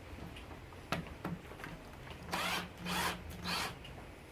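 A power drill-driver given three short bursts, about half a second apart, on a wood screw that is not biting. A couple of small clicks come before them.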